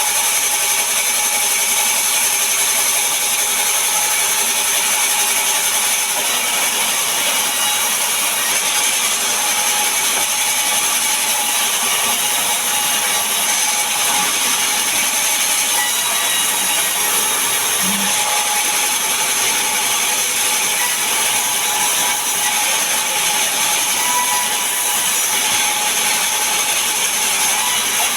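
Sawmill saw running steadily while sawing mahogany and pine timber: a continuous machine noise with a steady whine over it.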